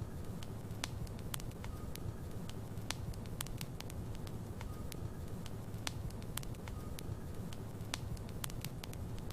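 Wood logs burning in a fireplace: a steady low rumble of flame with sharp, irregular crackles and pops, several a second.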